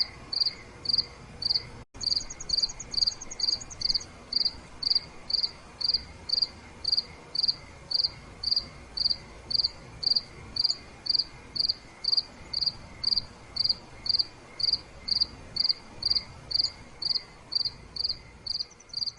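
Crickets chirping at night: one loud, evenly paced chirp at about two a second, with a fainter, higher trill from another insect about two seconds in and again near the end. The sound cuts out for an instant about two seconds in.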